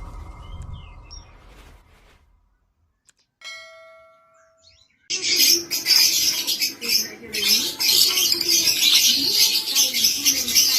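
Lovebirds chattering: a few faint chirps, a brief lull with a short ringing tone, then from about halfway in a dense, loud, continuous chatter of many birds.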